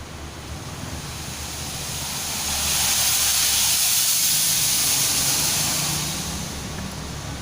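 A long hiss that builds over a couple of seconds, holds for about three seconds and then fades away, over a low steady hum.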